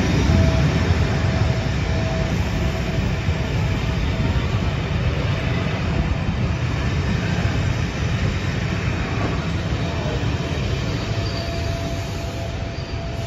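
Pullman-style passenger coaches rolling slowly past on arrival, their wheels rumbling on the rails with a faint steady squeal. The sound eases gradually as the train slows to a stop.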